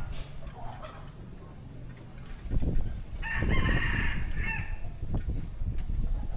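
A rooster crowing once, about three seconds in, over a low rumble.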